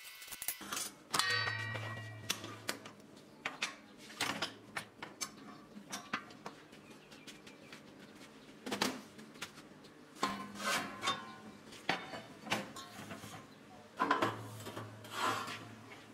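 Workshop handling sounds: a run of clicks, knocks and scrapes as metal parts are moved and set in place, with a low hum coming in twice for a second or two.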